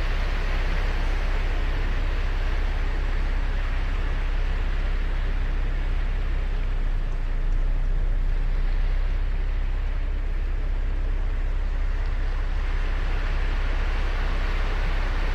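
Ocean surf breaking and washing onto a sandy beach: a steady roar of waves that eases slightly in the middle and builds again near the end.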